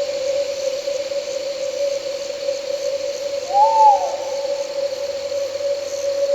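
One owl hoot, a short call that rises and falls, about three and a half seconds in. Under it run a steady low hum and a faint high chirring of night insects.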